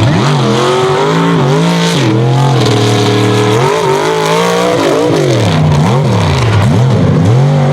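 A mega truck's race engine revving hard under full throttle, its pitch climbing and dropping over and over as the throttle is lifted and stabbed, with a held high stretch about three seconds in and several quick swings near the end.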